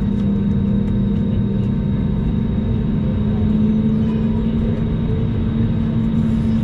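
Airbus A321 cabin noise during taxi: the jet engines and air systems give a steady drone with a strong low hum that rises slightly in pitch a little before halfway through.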